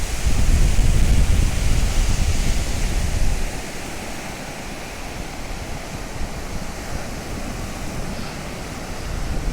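Sea surf washing on a beach, with wind buffeting the microphone. The buffeting is heavy for the first three seconds or so, then eases to a steadier rush.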